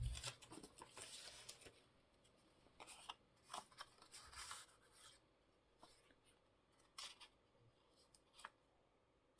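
Faint handling of paper craft scraps and supplies: scattered short rustles and light clicks.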